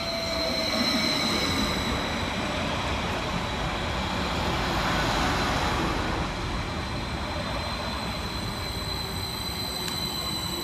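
Transport for Wales Class 231 Stadler FLIRT diesel multiple unit 231008 arriving past the platform: a steady rumble of the train's wheels on the rails with a thin high-pitched whine, swelling about a second in and again midway as the carriages pass, and fading near the end.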